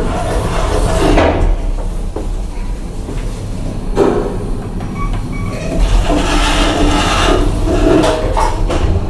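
KONE MiniSpace traction elevator in operation: a steady low rumble with several knocks and clunks, three of them sharp, at about one, four and eight and a half seconds in.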